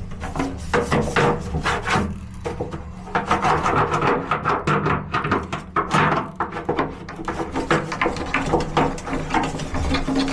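A scraper scraping thick grime and buildup off a washing machine drum spider, in quick, irregular scratchy strokes.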